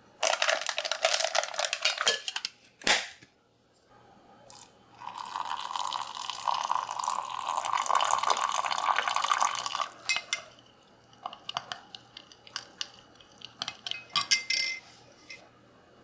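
Kitchen work: a rushing noise cuts in at the start and stops after a couple of seconds, a sharp click follows, and a longer steady rushing noise runs for about five seconds. Scattered clinks of dishes and utensils follow.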